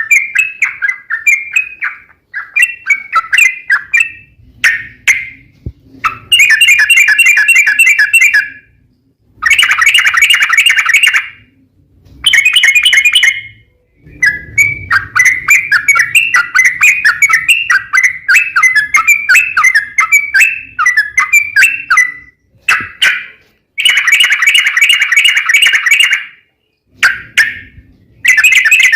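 Yellow-vented bulbul (trucukan) singing in long, fast rolling phrases. The notes come quickly in bouts of one to three seconds, broken by short pauses.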